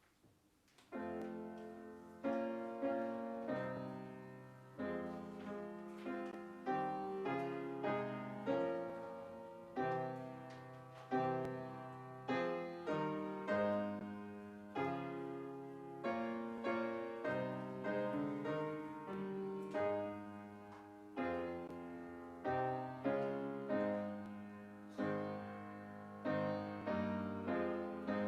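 Piano playing a slow, quiet piece of chords, each struck and left to fade, starting about a second in.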